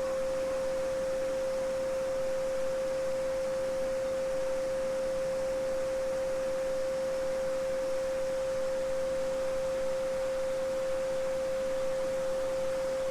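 A steady 528 Hz pure sine tone, the "solfeggio frequency", held unchanged throughout. Beneath it is the fainter, even rush of a babbling brook.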